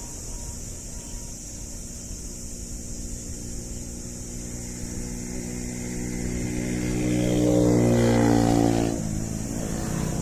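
A vehicle engine over a steady rumble, growing louder as it draws near, then cutting off abruptly about nine seconds in.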